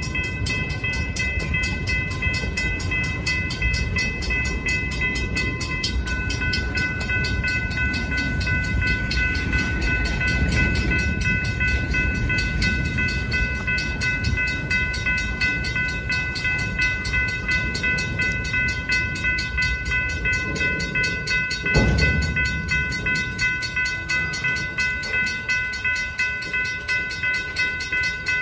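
Freight train of centerbeam flatcars and tank cars rolling past slowly: a steady rumble of steel wheels on rail under several steady high ringing tones. There is a single loud clunk about three quarters of the way through, and a regular clickety-clack of wheels over rail joints near the end.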